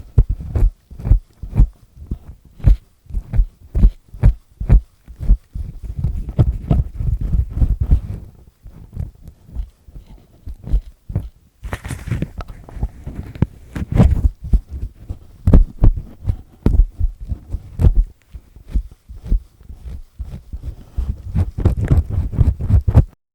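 Close-miked earpick with a black triple-disc tip scraping and grinding inside an ear: a dense, uneven run of scratchy strokes and clicks, heavy in the low end, with a brief hiss about twelve seconds in. It cuts off suddenly near the end.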